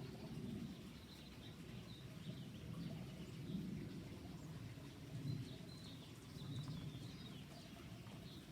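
Faint bird chirps scattered through the clip over a steady low outdoor rumble.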